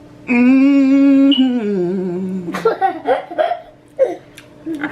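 A man hums a long, loud "mmm", held on one note and then stepping down in pitch twice, as a sign of relish at the food. Short, broken mumbling sounds follow.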